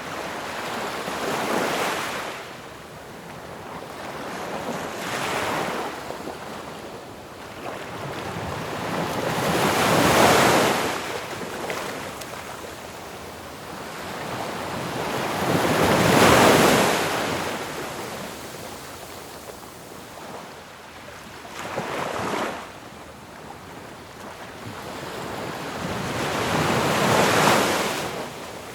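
Ocean waves breaking on a shore: a steady hiss of surf that swells and falls back in surges every five to six seconds, the loudest crashes about ten and sixteen seconds in.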